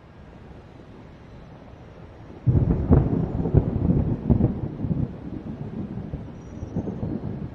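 A thunderclap breaks in suddenly about two and a half seconds in, crackling and then rumbling on as it slowly fades, over a soft steady hiss.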